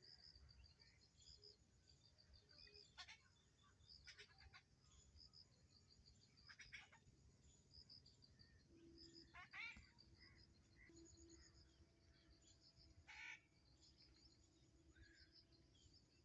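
Rufous treepie giving harsh, grating calls about five times, spaced a few seconds apart, over a continuous high, rapid chirping in the background. The whole recording is faint.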